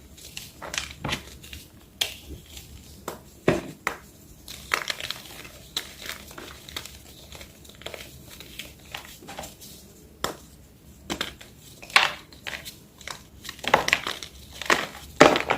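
Plain white gym chalk being crushed, a run of irregular crunches and crumbling crackles, several a second, some sharper and louder than others.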